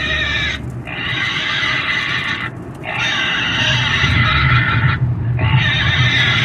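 Pig squealing: long, loud, high-pitched screams, one after another, broken by short breaks about half a second, two and a half and five seconds in.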